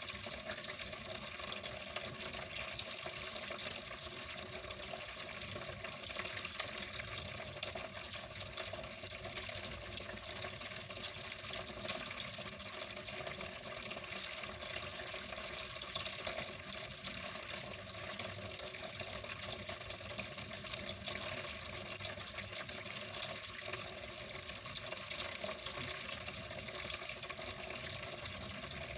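Water flowing steadily, a continuous running-water sound without breaks.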